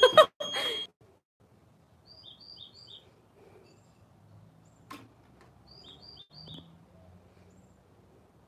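A small bird chirping faintly: two phrases of three quick, high chirps, about four seconds apart. A single sharp click comes between them.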